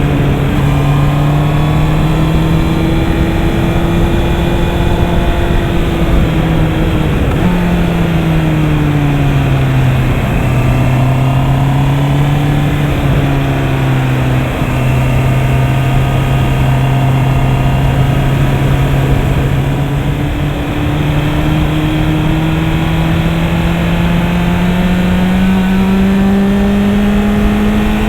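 Honda CB650R's 649 cc inline-four engine running under way at steady revs. Its pitch drops about seven to ten seconds in, holds, then climbs slowly through the last third as the bike speeds up.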